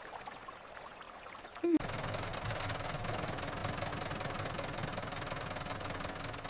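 A faint hiss, then an engine cuts in abruptly about two seconds in and runs steadily at an even pace.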